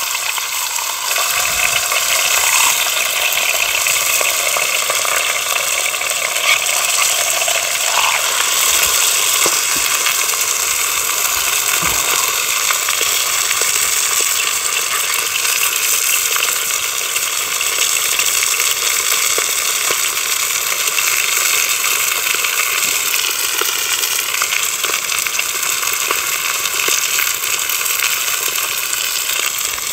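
Breaded sea bass fillets frying in hot oil: a steady sizzle with faint scattered crackles.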